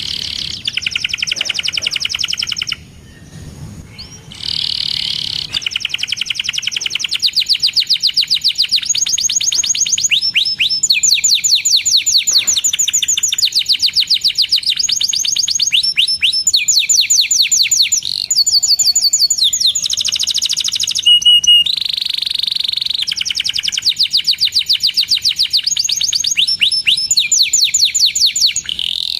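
Domestic canary singing a long, continuous song of fast trills and rapidly repeated chirping notes, with one short break about three seconds in.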